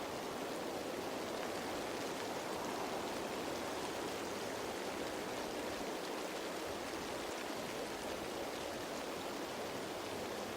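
Steady rain falling on leaves: an even hiss with faint ticks of individual drops.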